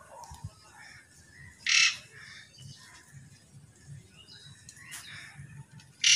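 Outdoor birds: a short, loud, harsh squawk about two seconds in and another at the very end, with fainter chirps between them.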